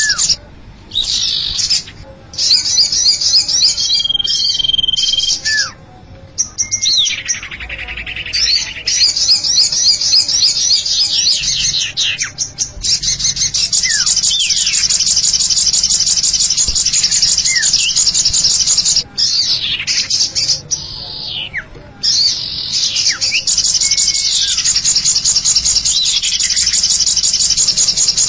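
Small-bird lure track for the common iora (cipow): fast, high, buzzy trills and chattering, broken by repeated downward-slurring whistles, with a few brief pauses.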